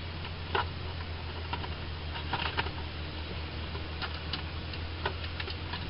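Scattered light clicks and knocks of items being handled in the cockpit of a parked Cessna 172, over a steady low hum.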